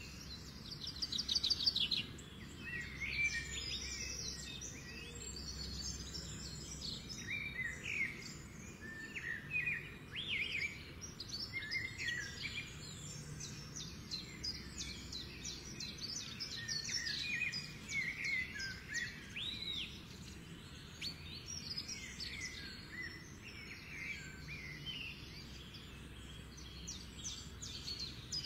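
Small birds chirping and singing in quick trills and short calls throughout, over a low steady hum.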